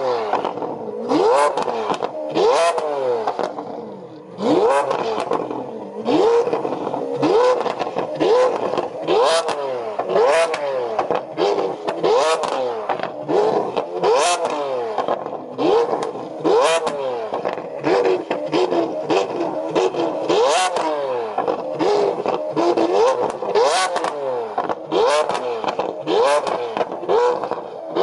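Lamborghini Aventador LP720-4 Roadster's V12 revved in quick blips while standing still, roughly one a second, each rising and falling in pitch. Sharp pops and crackles come from the exhaust between revs: backfire that throws flames from the exhaust.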